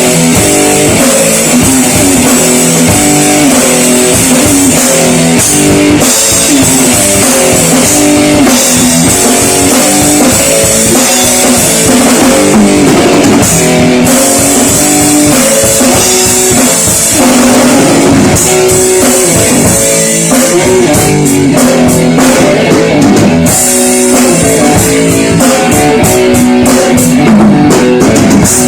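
Rock band playing loudly: electric guitar riffs over bass and a drum kit with crashing cymbals.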